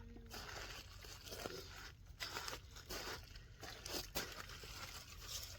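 Irregular rustling and crunching noises, with a few sharper crackles about two, three and four seconds in.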